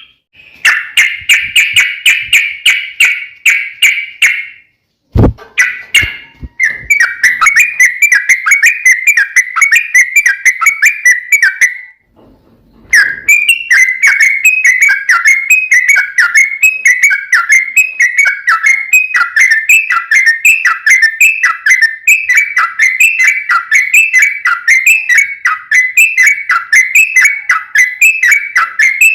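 Yellow-vented bulbul (trucukan) singing a long, fast run of repeated whistled notes, about two a second. It breaks off briefly twice, with a single thump just after the first break.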